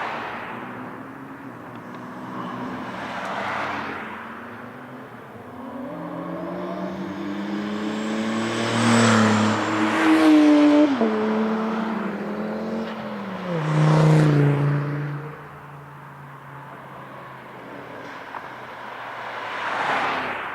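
Cars passing at speed on a race circuit, one after another. The loudest pass comes about nine to eleven seconds in: the engine note rises, then drops sharply as the car goes by. Another loud pass follows a few seconds later, with fainter ones near the start and the end.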